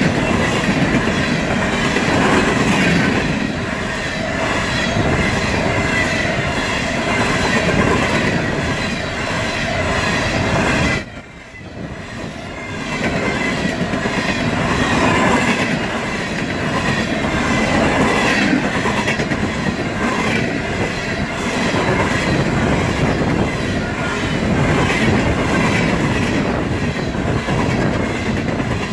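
Freight train of coal gondola cars rolling past at speed: a steady rumble and clatter of steel wheels on the rails. Near the middle the sound dips sharply for a second or so, then comes back.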